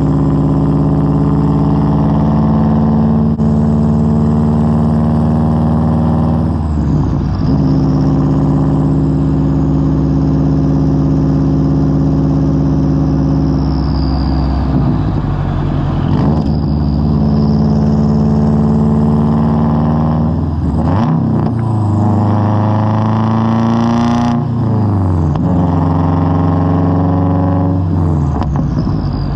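2003 Subaru WRX's turbocharged flat-four engine through a Tomei straight-pipe exhaust, heard from an outside microphone while driving. It holds a steady cruising note for stretches, and its pitch drops and climbs again several times as the car shifts and changes speed.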